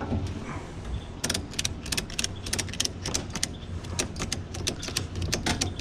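A quick, irregular run of sharp clicks and rattles starting about a second in, over a steady low hum.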